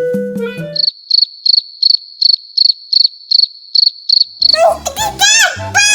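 Cartoon sound effect of a cricket chirping in an even high-pitched pulse, about three chirps a second, for nearly four seconds after a held note cuts off. Near the end, music with falling whistle-like slides comes in.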